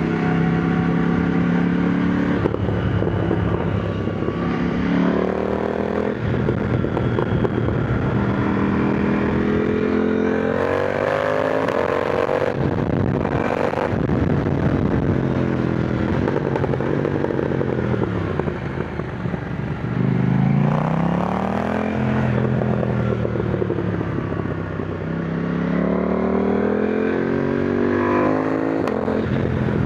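KTM Duke 990 motorcycle engine under way, revving up through the gears and dropping back off the throttle several times between bends.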